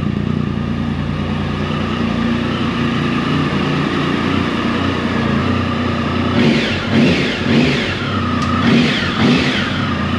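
Triumph Tiger 1050's three-cylinder engine idling steadily once warmed up. About six seconds in it is revved about five times in quick succession, each rev rising and falling back toward idle.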